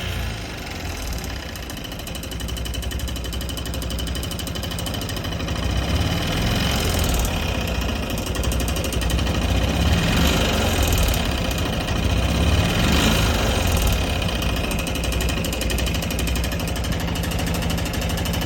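Suzuki Gixxer 150's air-cooled single-cylinder engine running at idle, its speed swelling slightly a few times, with a noise the owner takes for abnormal and is asking others to identify.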